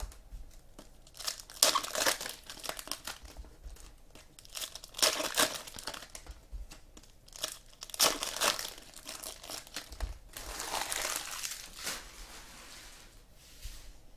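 Trading-card pack wrappers crinkling and tearing as packs are opened and handled, in a handful of short bursts with a longer one near the end.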